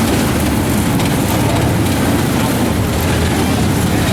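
Engines of several mini wedge dirt-track race cars running at low pace speed, a steady loud, rough engine noise without let-up.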